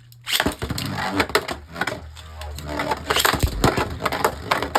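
Beyblade Burst spinning tops clashing and rattling in a plastic stadium: rapid, irregular clicks and knocks, with a low thump about three and a half seconds in.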